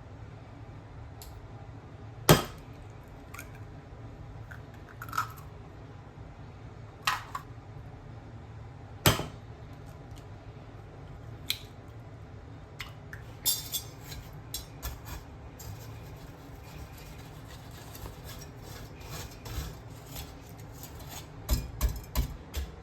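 Kitchen bowls and utensils knocking and clinking as they are handled: single sharp knocks every couple of seconds, then quicker runs of small clatters midway and near the end.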